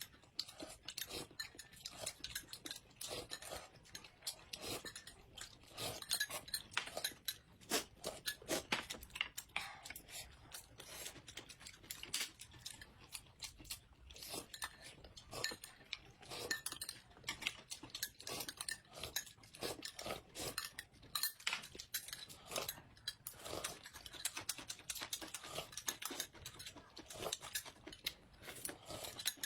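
Eating sounds: close-up chewing and crunching, with utensils clinking against dishes. The sounds come as many short, irregular clicks.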